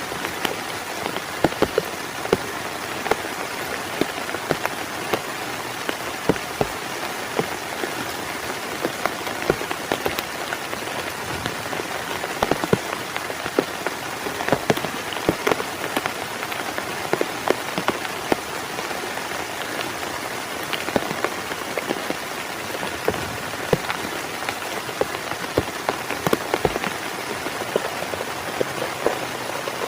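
Heavy rain falling steadily on a tent, a dense hiss with many sharp, separate drop impacts throughout.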